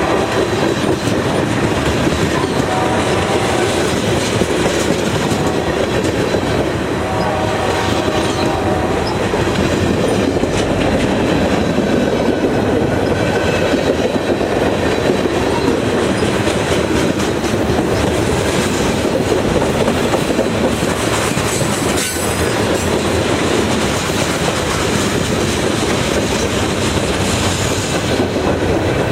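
Railroad cars rolling steadily past at close range, with the wheels running continuously on the rails and a few faint high tones in the first several seconds.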